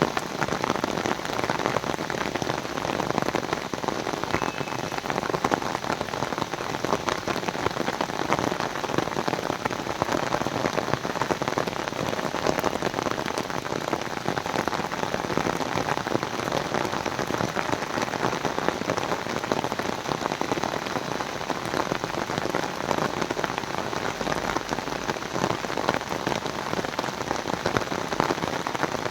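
Heavy downpour: steady, dense rain falling on the surface.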